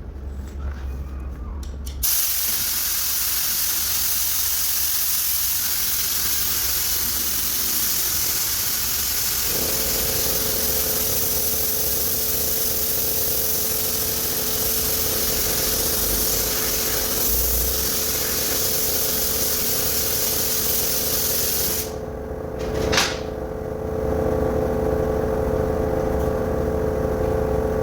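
Compressed-air spray gun hissing steadily as paint is sprayed, with a steady hum joining about a third of the way in. The hiss stops briefly near the end, a click sounds, and the spraying resumes.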